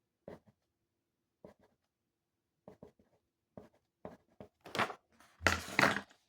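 Pen strokes on paper, short separate scratches and taps, then a few louder, longer rustling scrapes on the paper near the end.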